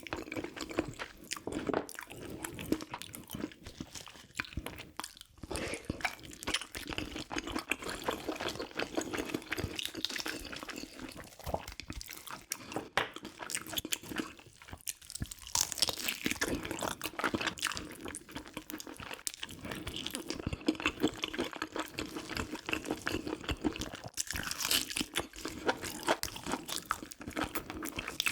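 Wet, irregular chewing and crunching of a mouthful of food, close to the microphone, from a meal of soy-braised pig's feet (jokbal) and kimchi.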